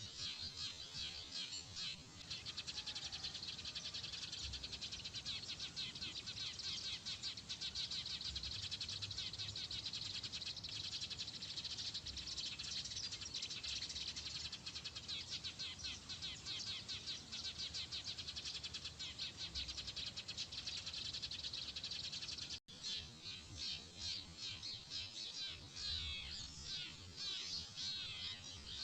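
A dense, continuous chorus of small birds chirping rapidly, with a brief dropout about two-thirds of the way through.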